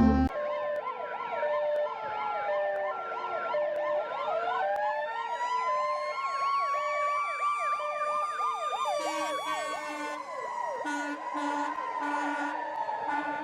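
Several emergency-vehicle sirens sounding together: a fast up-and-down yelp, a two-tone high-low siren, and a slow wail that rises about four seconds in and sinks again near the end.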